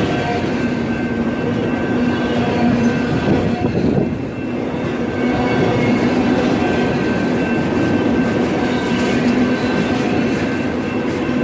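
Freight train of autorack cars rolling past at close range: a steady rumble and rattle of wheels on the rails, with several steady ringing tones held over it. The sound dips briefly about four seconds in.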